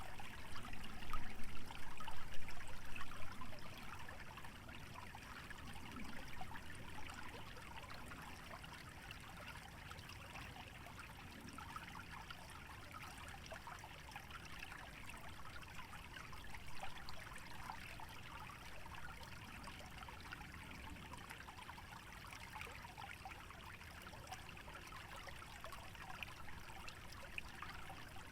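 Small stream trickling and babbling steadily through a wetland, a continuous fine patter of running water. The sound is somewhat louder for the first few seconds, then settles to an even level.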